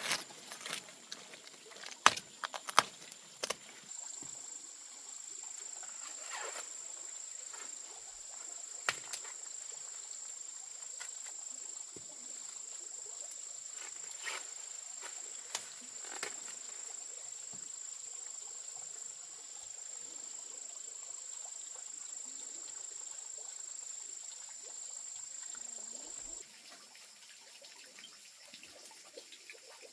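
An insect's steady high-pitched drone, starting about four seconds in and cutting off suddenly near the end. A few sharp clicks or knocks come before it, in the first seconds.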